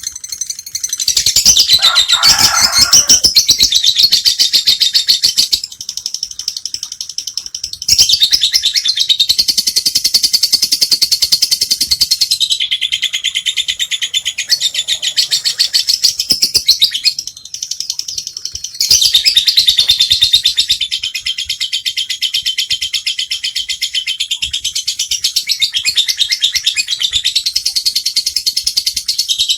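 Lovebird (Agapornis) singing its long 'ngekek' chatter: a fast, unbroken stream of high, shrill chirps that runs on for several seconds at a time, with a few short pauses.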